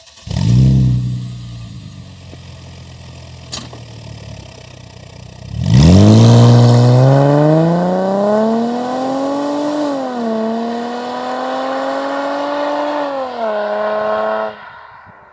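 Mercedes-Benz V6 engine starting with a short loud flare that drops to a steady idle. About six seconds in it accelerates hard, its pitch climbing with two brief dips at gear changes, then it cuts off near the end.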